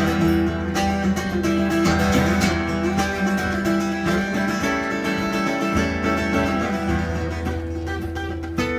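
Guitar playing on its own, strummed and plucked chords in a steady flowing accompaniment.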